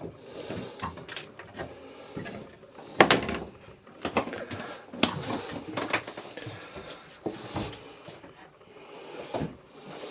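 Scattered knocks and clunks in a small, enclosed boat cabin, about six over the stretch, the loudest about three seconds in, like lockers, hatches or doors being handled.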